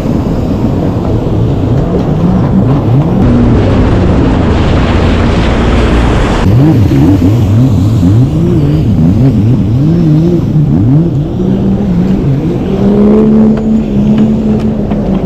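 Jetski engine running hard, its revs swinging quickly up and down for several seconds, then holding a steady pitch near the end, over a steady rushing noise.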